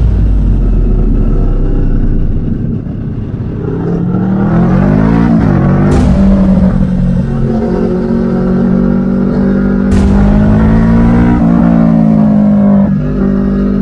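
Kawasaki Vulcan motorcycle engine running hard as the bike accelerates through the gears. Its pitch climbs about four to five seconds in and breaks sharply at gear changes around six and ten seconds in, then holds fairly steady.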